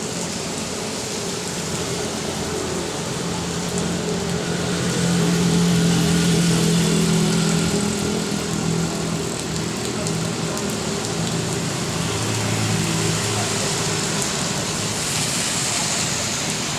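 Steady rain falling, with a motor vehicle's engine going by through the middle, its hum swelling a few seconds in and fading away after about ten seconds.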